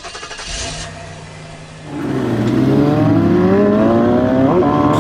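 Dodge Charger's 3.5-litre V6 engine running steadily, then, about two seconds in, getting louder and accelerating, its pitch climbing steadily for about three seconds.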